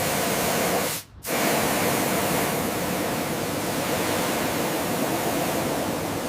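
A steady, hissing spray that cuts out briefly about a second in, then starts again.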